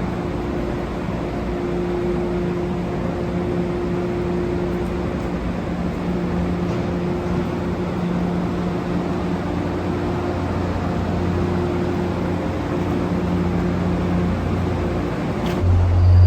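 MBTA Commuter Rail train running, a steady rumble and hum with a few low tones held throughout. A louder low hum comes in shortly before the end.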